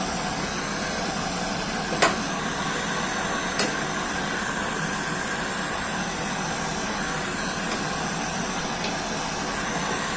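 A steady hissing, machine-like noise, with two sharp clicks about two and three and a half seconds in.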